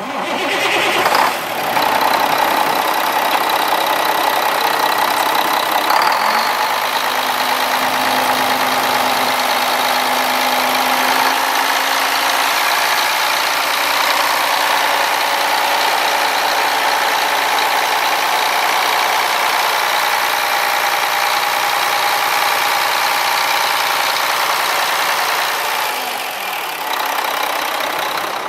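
Mack E7-330 inline-six diesel engine of a 1999 Mack CH613 truck running steadily at idle, getting louder about a second in and easing slightly near the end.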